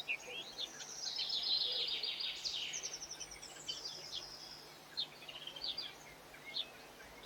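Small songbirds singing: fast high trills and warbled phrases for the first few seconds, then scattered short chirps.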